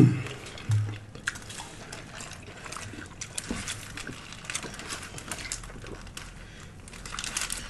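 Close-up wet chewing and smacking mouth sounds of people eating a lettuce-wrapped Italian sub sandwich: irregular small clicks and crackles. It opens with a brief falling vocal sound.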